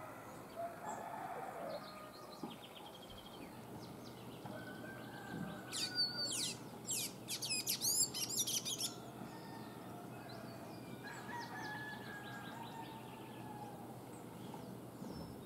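Wild birds singing at a low level, several voices of scattered whistles and chirps. The loudest is a run of quick, high, squeaky notes, each sweeping sharply down, from about six to nine seconds in.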